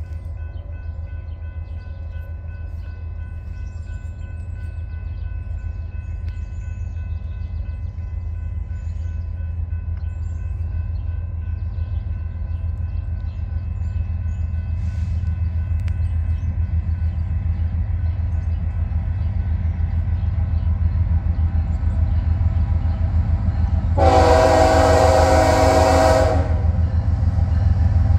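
Approaching BNSF freight train led by diesel locomotive 6871: a low engine rumble that grows steadily louder, then one loud horn blast of about two seconds near the end.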